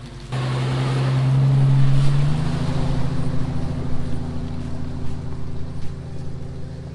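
Jeep Cherokee XJ's 4.0-litre straight-six running under load as it crawls off-road. The engine note rises slightly over the first two seconds, then changes and holds steady for the rest.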